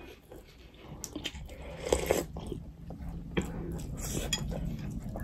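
Close-miked eating sounds: people chewing mouthfuls of rice and curry, with many short wet mouth clicks and smacks and the odd light clink of a bowl or spoon.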